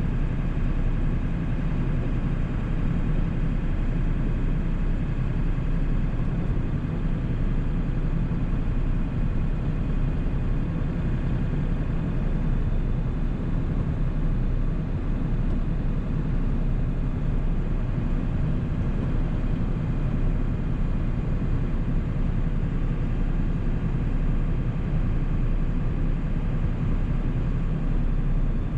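A 1997 7.3-litre Powerstroke turbo-diesel V8 running steadily under way, with a low drone and road noise that holds even with no revving or gear changes.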